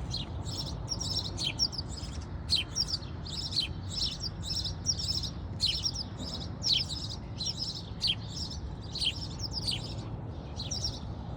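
Small birds chirping: short, high chirps repeated about twice a second without a break, over a steady low rumble.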